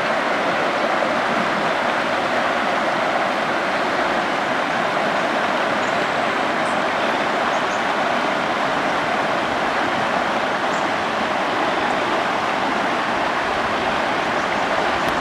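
Steady rushing wind and tyre noise from riding a bicycle along a path, with a few faint high chirps about halfway through.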